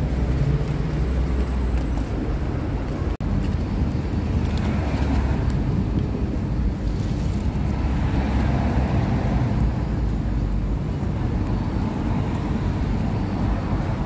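Street traffic noise: a steady low rumble of road vehicles, swelling for a few seconds around the middle as a vehicle seems to pass. The sound cuts out for an instant about three seconds in.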